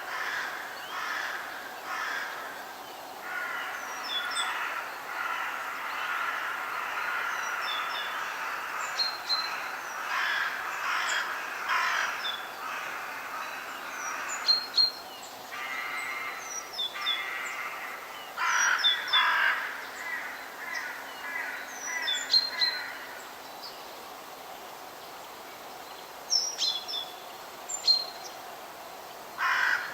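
Wild birds calling in a forest: harsh, repeated calls come again and again, loudest in a few clusters, while smaller birds add short high chirps and whistles above them.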